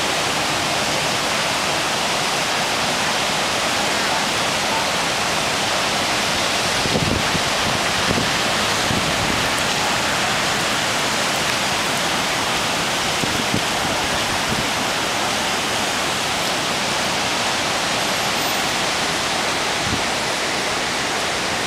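Floodwater pouring out of the Pompton Lakes Dam during a hurricane flood, a steady rushing with no let-up.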